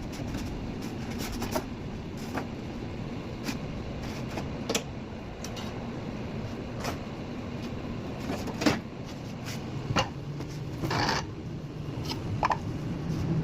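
Irregular sharp knocks and clicks, about eight of them, with one short scrape partway through, over a steady low background noise: the sound of metal parts and tools being handled during hands-on work on a window air conditioner.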